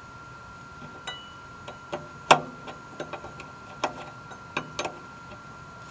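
Irregular sharp clicks and metallic knocks from hand tools working the oil drain bolt of a 1979 Ford F600 truck, with one louder knock that rings briefly about two seconds in. A faint steady high hum runs underneath.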